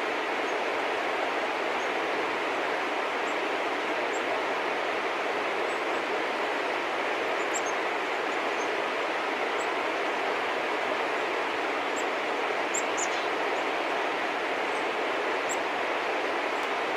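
Steady rushing outdoor background noise from an unseen source, with faint, brief high bird chirps scattered through it, more of them in the second half.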